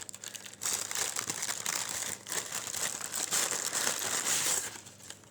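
Paper food packaging crinkling and rustling as it is handled and opened, a dense crackle that stops shortly before the end.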